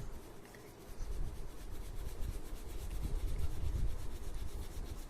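Oil pastel crayon rubbing on paper in quick, repeated back-and-forth colouring strokes, with a brief pause just under a second in.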